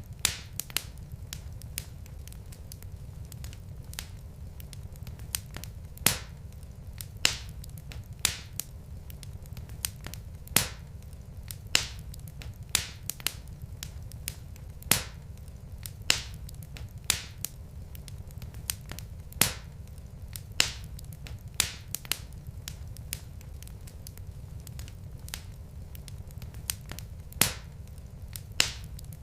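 Wood fire burning in a fireplace: irregular sharp crackles and pops from the logs, about one or two a second, over a steady low rumble of the flames.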